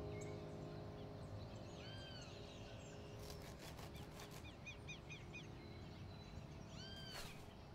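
Faint birdsong: an arched whistled note about two seconds in, a quick run of short chirps around the middle, and another arched note near the end, over a soft outdoor hiss. A music score fades out at the start.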